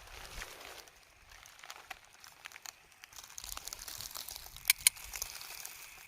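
Crinkling and rustling with scattered crackles, growing busier about halfway through, and two sharp clicks in quick succession near the three-quarter mark.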